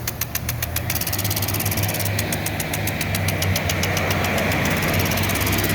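Impact sprinkler head running, its hammer arm clacking in a rapid, even tick of about eight a second, with a pause of about a second near the start, over a steady low hum.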